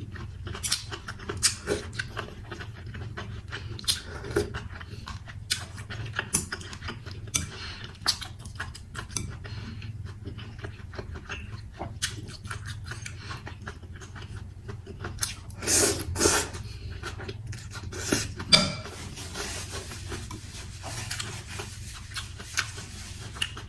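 Close-up eating of chicken mì Quảng noodles: many short clicks of chopsticks or a spoon against the bowl, with chewing and slurping. A few louder slurps or mouthfuls come a little past the middle.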